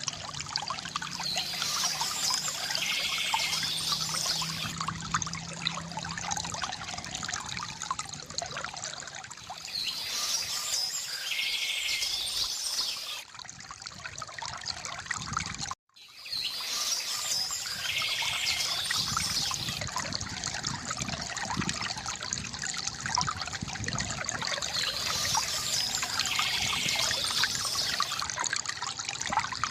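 Small stream trickling and splashing steadily over stones, with birds singing in four separate phrases of a few seconds each. About halfway through, the sound cuts out completely for a moment.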